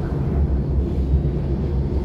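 Steady low rumble of a moving electric train heard from inside the carriage: wheels running on the rails with the car's running noise.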